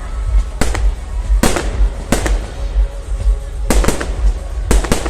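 Aerial fireworks bursting: a run of sharp bangs, many in quick pairs, about ten in five seconds, over a steady low rumble.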